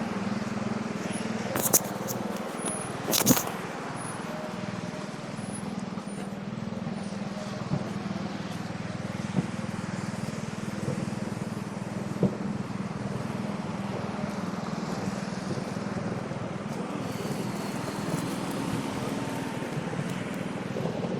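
A motor engine runs with a steady low hum. Two sharp clacks come in the first few seconds, with a few fainter ticks later.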